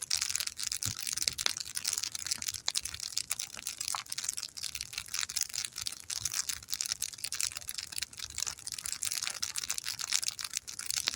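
Wood campfire burning hard, crackling and hissing with a dense, irregular stream of small pops.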